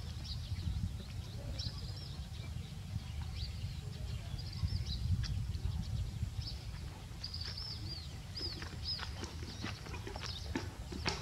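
Small birds chirping in short, high, repeated calls, busiest in the second half, over a steady low rumble.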